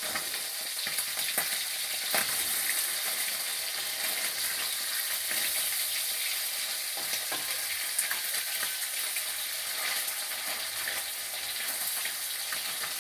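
Fish frying in hot oil in a pan: a steady sizzle with a few light clicks.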